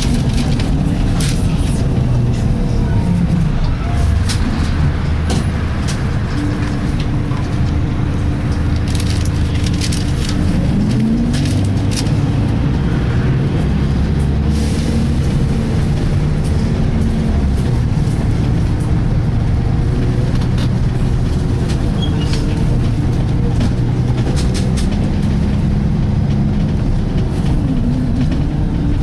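Volvo B10BLE bus with a Voith automatic gearbox under way, heard from inside the cabin: a steady engine drone with a whine that comes and goes in held tones, sliding in pitch twice, around the gear changes, plus light rattles. The whine comes from the Voith gearbox.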